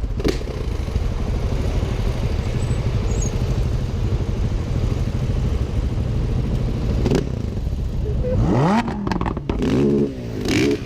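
Motorcycle riding, with a steady rumble of engine and rushing noise. About eight seconds in, the engine revs climb sharply, then rise and fall again near the end.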